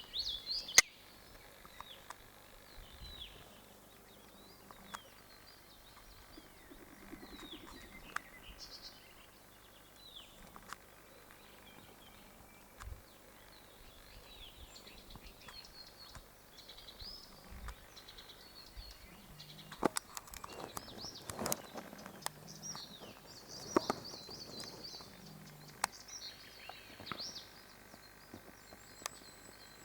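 Small birds chirping and calling on and off over a quiet outdoor background. A few sharp clicks or knocks come in a cluster about two-thirds of the way through, and these are the loudest sounds.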